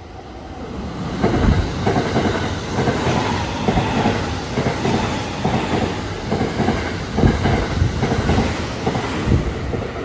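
White limited-express electric train passing through the station at speed without stopping. It builds up quickly and then runs on as a steady rumble with rapid clickety-clack of the wheels over the rail joints.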